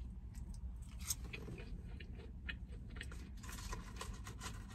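Close-up chewing of fried chicken sandwich and fries: irregular wet mouth clicks and crunches, over a low steady rumble.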